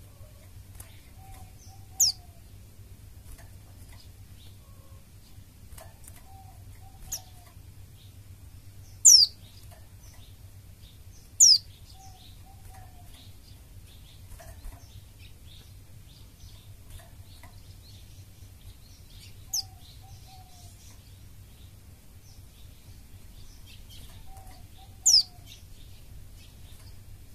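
White-eye (pleci) giving short, sharp, high calls that fall quickly in pitch, five of them spread out with long gaps, over faint scattered high chirps and a steady low hum. This is the kind of pleci recording played as a lure to get other white-eyes singing.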